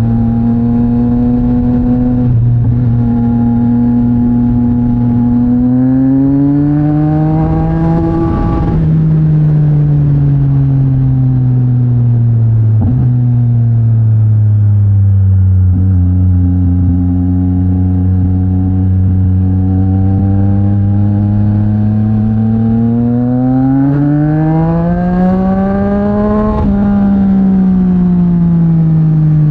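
Yamaha MT-09's three-cylinder engine through a Mivv X-M50 aftermarket exhaust, pulling steadily under way. The revs rise twice and ease off again between.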